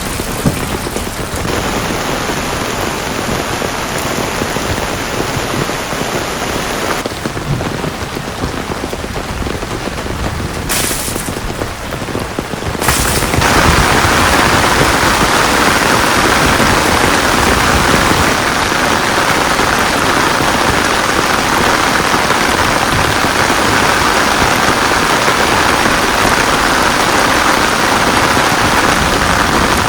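Heavy rain pouring down steadily, its sound changing abruptly a few times, then heavier and louder from about halfway through.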